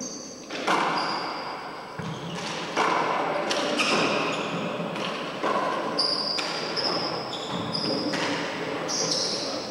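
Four-wall handball rally: a rubber handball is struck by hand and smacks against the court walls and floor again and again, each hit sharp and echoing in the enclosed court.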